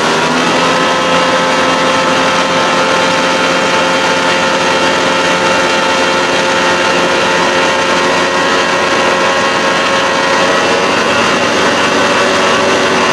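1992 Johnson 60 hp outboard motor running steadily with the boat at speed, its engine note holding an even pitch.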